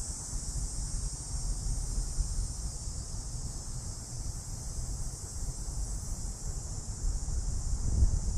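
Cicadas buzzing in one steady, unbroken high drone. Wind rumbles on the microphone underneath, with a stronger gust near the end.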